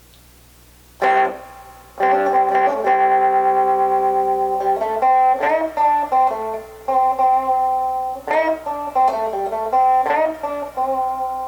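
Fender Stratocaster electric guitar played clean on the bridge-and-middle pickup position with the tone knob rolled down to 1. A single struck chord about a second in, then a repeating riff of held, ringing notes; the tone is pretty dark and pretty warm.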